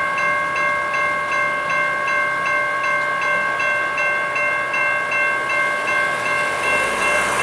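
Grade crossing warning bell ringing steadily, about two to three strokes a second. A low rumble grows near the end.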